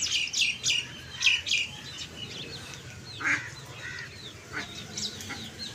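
Small birds chirping: a quick run of short, high chirps in the first second and a half, then scattered chirps.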